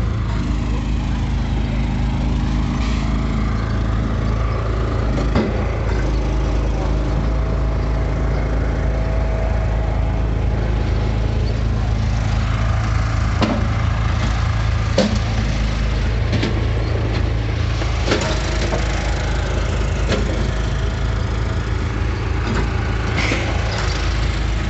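Gas engine of a log splitter running steadily, with occasional sharp knocks and cracks of wood being split.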